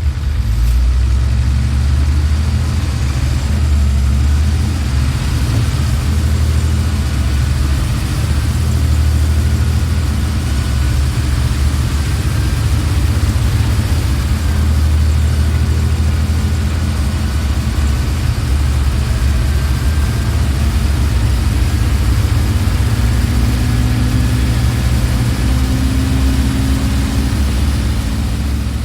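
Volvo TD63 six-cylinder turbodiesel bus engine running steadily, with a deep, even drone.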